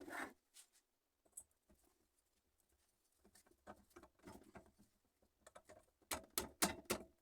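Light, scattered clicks and knocks of hand tools and metal engine parts being handled during assembly, ending in a quick run of sharper clicks.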